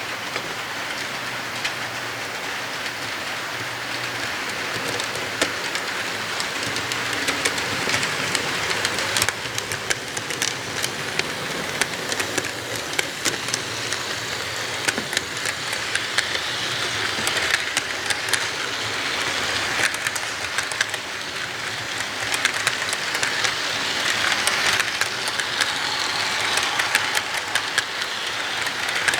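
Model train running along its track: a steady rolling rumble and hiss from the wheels and motor, with frequent sharp clicks as the wheels pass over rail joints.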